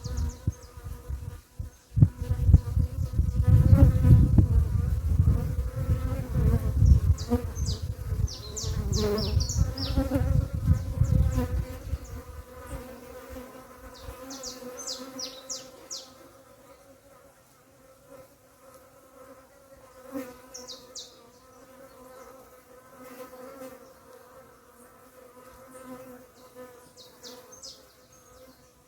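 Bees buzzing around papaya fruit in a steady, even hum, with clusters of short, high bird chirps every few seconds. A loud low rumble fills roughly the first twelve seconds, then drops away, leaving the buzzing.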